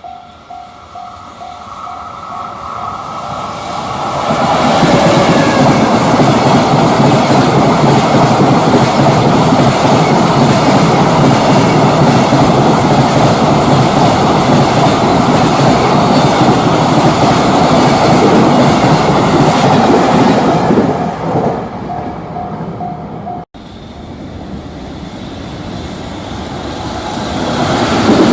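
A freight train of container wagons passes close by: a loud, steady rumble and clatter of wheels on rail lasting about sixteen seconds. A level-crossing bell pings in rapid, even pulses before the train arrives and again as it goes. Near the end, after a cut, another train's rumble grows louder as it approaches.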